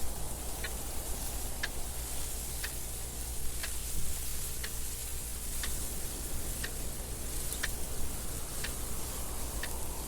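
Clock ticking steadily about once a second over a constant wind noise.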